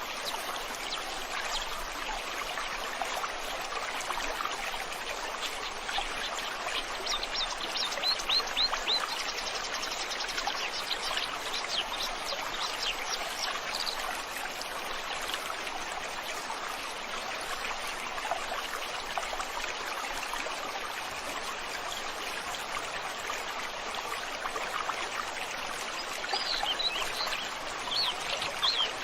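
Flowing river water making a steady rushing sound, with birds chirping over it in runs of quick high notes, busiest in the middle and again near the end.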